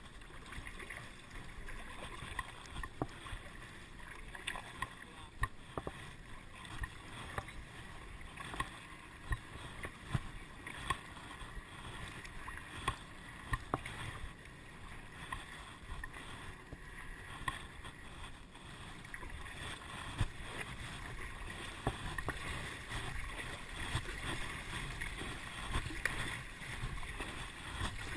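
Water splashing and sloshing around a kayak, with irregular sharp knocks and taps throughout.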